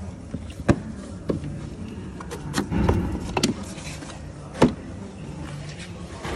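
Sharp plastic-and-metal clicks and knocks, about half a dozen spread over several seconds, from hand work on a truck's headlight unit, over a low steady hum.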